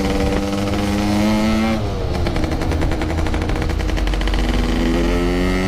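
Motorcycle engine and exhaust under way, pitch rising as it accelerates, then the throttle closes about two seconds in with a rapid rattling crackle for a couple of seconds before the revs build again near the end.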